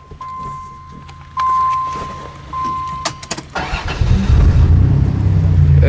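A steady electronic warning tone sounds on and off, with a few sharp clicks. About three and a half seconds in, the minivan's engine cranks, catches and settles into a steady idle.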